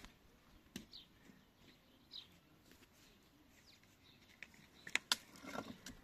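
A few faint bird chirps, short falling notes, over a quiet background, with scattered sharp clicks, the loudest a pair about five seconds in.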